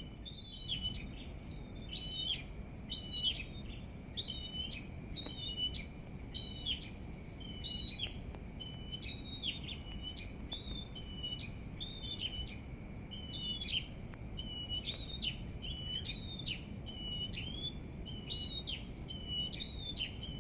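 Small birds chirping: short, high notes repeated about twice a second without a break, over a steady low outdoor rumble.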